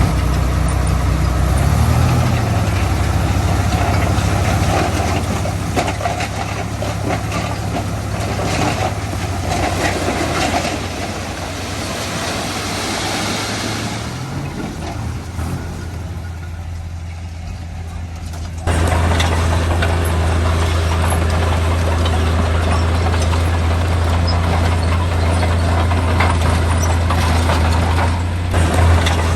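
Heavy diesel engine of earthmoving machinery running steadily with a low hum. The sound dips in the middle, then suddenly gets louder about two-thirds of the way in.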